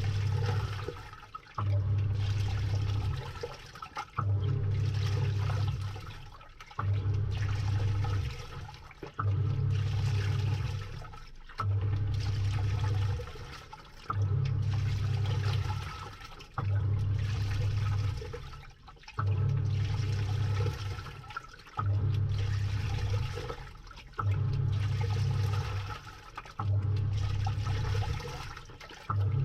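Samsung top-load washing machine agitating a load in water, heard from inside the tub: the motor drives the pulsator in pulses about a second and a half long, roughly every two and a half seconds, with a low hum during each. Water swirls and sloshes, fading away between the pulses.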